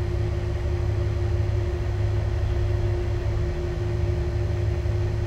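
Vehicle engine idling: a steady low hum with a constant mid-pitched drone over it.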